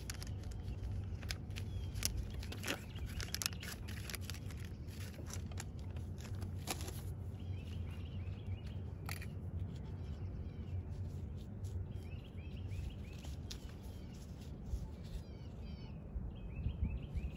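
Small birds chirping over a steady low rumble, with scattered sharp clicks and scrapes through the first half.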